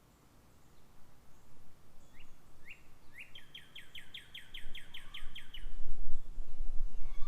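A songbird sings two quick rising notes, then a trill of about a dozen fast down-slurred notes, about five a second. From about five seconds in, a low rumble sets in and becomes the loudest sound.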